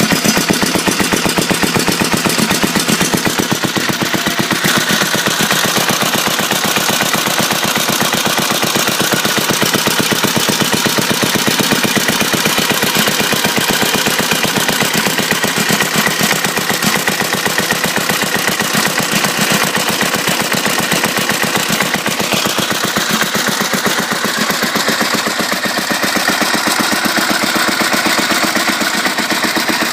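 Bernard D2 8 hp stationary petrol engine running steadily, with a fast, even beat of sharp exhaust reports.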